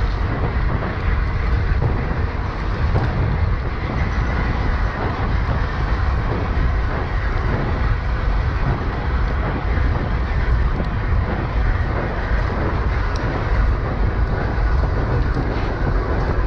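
Steady wind noise buffeting a camera microphone on a moving bicycle, a continuous rushing rumble heavy in the low end.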